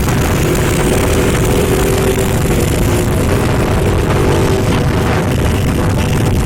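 Trucks driving past on a road: a loud, steady mix of engine and tyre noise, with a faint steady tone in the first few seconds.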